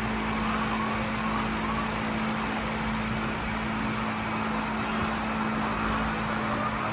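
A steady machine hum with one constant low tone over a continuous noisy background.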